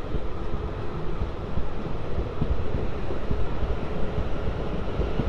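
Steady low rumble and running noise of a South Western Railway passenger train in motion, heard from on board.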